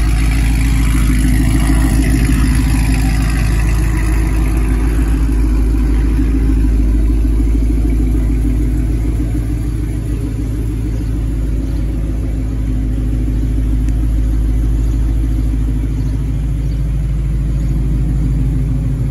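Whipple-supercharged 5.0 L V8 of a 2019 Ford Mustang GT with headers and Corsa exhaust, idling steadily with a low exhaust rumble.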